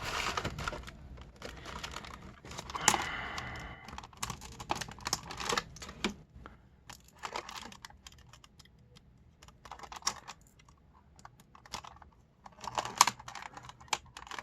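Action-figure packaging being cut open and handled: irregular clicks, taps and plastic crackling, with a quieter stretch in the middle.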